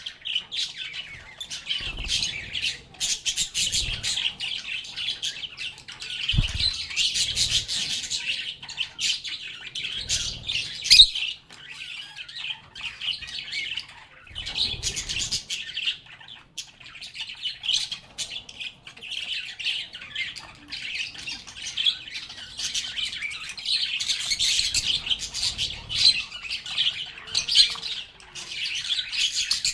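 Several lovebirds chirping and squawking in near-constant shrill chatter, with brief lulls. A few short, dull thumps sound underneath, the sharpest about eleven seconds in.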